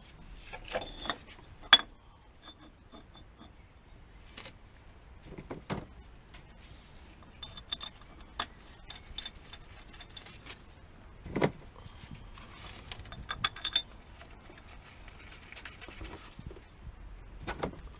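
Scattered metallic clicks, clinks and knocks of tools and car parts being handled during clutch work, with a few sharper knocks spread through.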